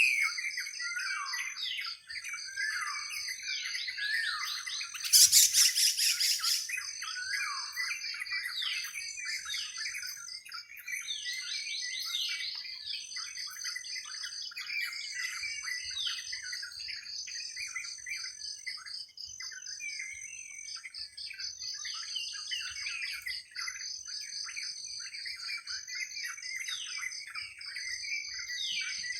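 Many wild birds chirping and calling in a busy chorus over a steady, high, pulsing trill. A loud, rapid trill breaks in about five seconds in.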